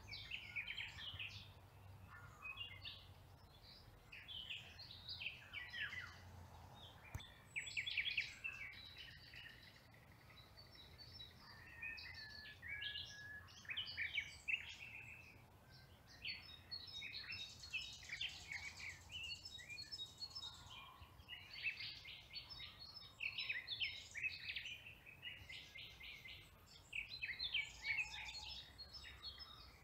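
Several songbirds singing and chirping in quick overlapping phrases, with one dense rapid trill lasting about three seconds past the middle, over a faint steady low hum.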